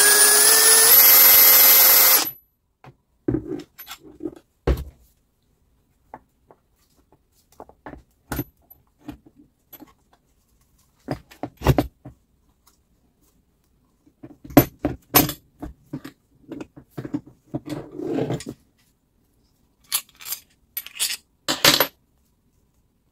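A small power tool's motor whirs, rising in pitch, and stops about two seconds in. Then comes a long run of scattered metallic clinks, taps and knocks from parts and tools being handled.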